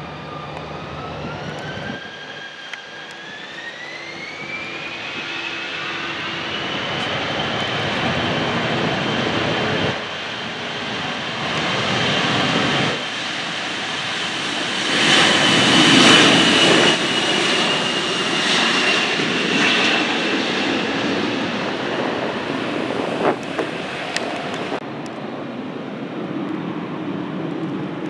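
Jet aircraft engines spooling up, their whine rising steadily in pitch over the first several seconds and then holding at a steady high whine over a roar. The roar is loudest about halfway through and eases off a little toward the end.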